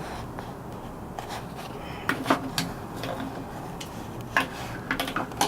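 Small hard parts being handled: a few scattered clicks and knocks, a cluster about two seconds in and another near the end, over a steady low hum.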